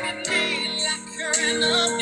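A love song playing, a singer's voice gliding with vibrato over steady backing music.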